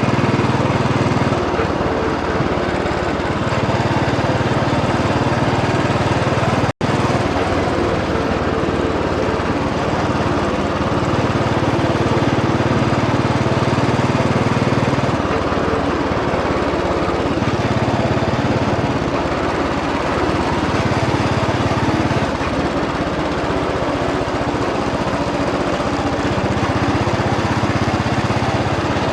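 Royal Enfield Bullet 500 EFI's single-cylinder engine running under way, its low note swelling and easing every few seconds as the throttle opens and closes. The sound drops out for an instant about seven seconds in.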